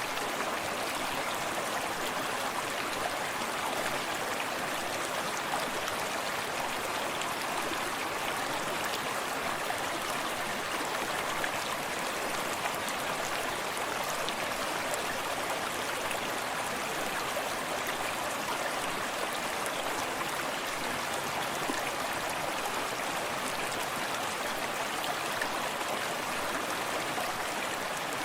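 Forest stream flowing steadily, a continuous rush of running water with small splashes and trickles.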